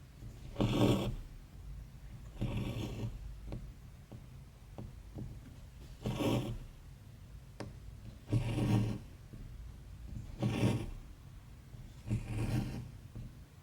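Embroidery floss drawn through cross-stitch fabric: a short rasping swish about every two seconds, six pulls in all, with faint ticks of the needle piercing the cloth between them.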